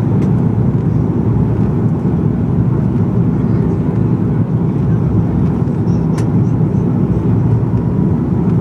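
Steady engine and airflow noise inside the cabin of an Airbus A330-200 powered by Rolls-Royce Trent 700 engines, heavy and low, with a faint steady whine above it. A single short click comes about six seconds in.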